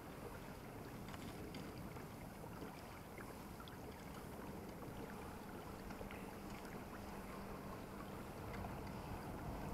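Water lapping and splashing around a fishing kayak's hull, with small ticks and light wind on the microphone.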